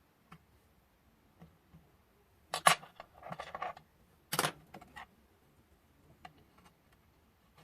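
Light clicks and knocks of craft tools and polymer clay being handled on a work surface, with two sharp clacks about two and a half and four and a half seconds in and a short rustle between them.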